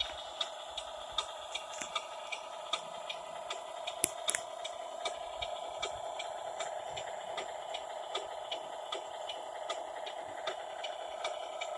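Small electric motor and gear drive of a 6x6 RC dump truck running with a steady whine and a regular light clicking, about two or three clicks a second; two sharper clicks come about four seconds in.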